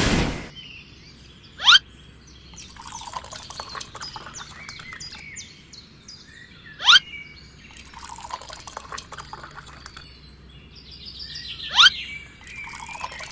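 Birds chirping, with a loud, quick rising whistle call heard three times, about five seconds apart.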